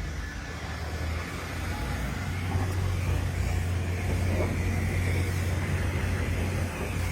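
Van in an automatic car wash: a steady low rumble with a broad hiss over it, growing a little louder about two seconds in.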